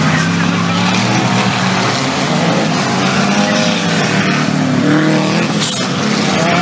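Engines of 4WD off-road race vehicles running hard on a dirt course, their pitch rising and falling as they rev.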